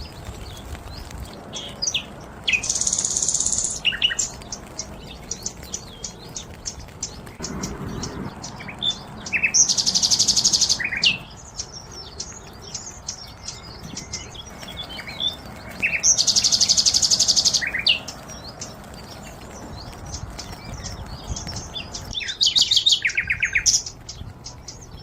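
Birds chirping and calling, with a loud, rapid, high trill repeated four times, each lasting one to two seconds, about every six or seven seconds.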